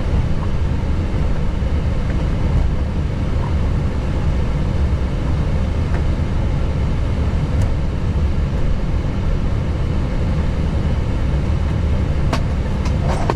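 Steady low rumble of an Airbus A321neo cockpit, with a few short clicks near the end.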